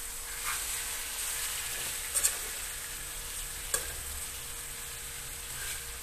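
Pink salmon pieces with tomato and onion sizzling steadily in oil in a metal wok, with a metal utensil stirring and knocking against the pan twice.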